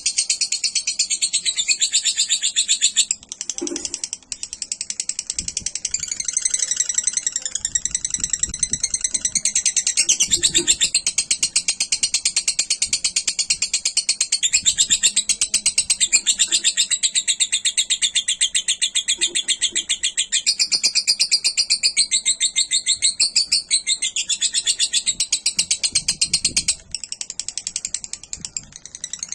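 Lovebird singing a long, unbroken run of rapid, high, chattering notes, with a brief break a few seconds in. The run stops near the end.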